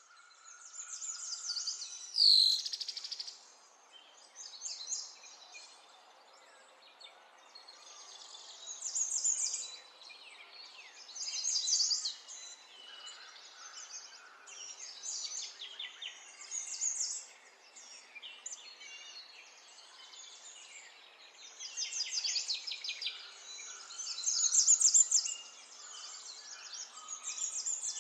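Birds chirping and singing: clusters of rapid high trills and chirps recurring every couple of seconds over a faint steady background hiss. A sharper, louder call sweeps down in pitch about two seconds in.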